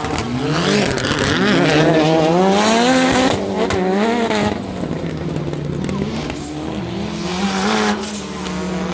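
Autocross car engine revving hard, its pitch climbing and dropping again and again through gear changes and lifts, loudest about two to three seconds in.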